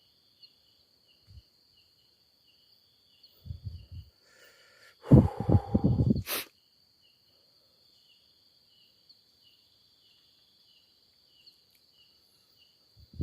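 Night insects, crickets, chirping steadily in two high tones, one of them pulsing about four times a second. A louder rough noise close by runs for about a second midway and ends in a sharp click.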